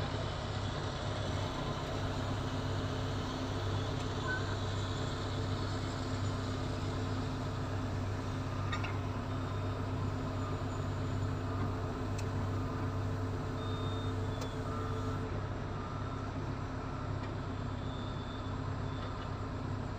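A diesel engine running steadily at a constant speed, with a low, even hum that does not change.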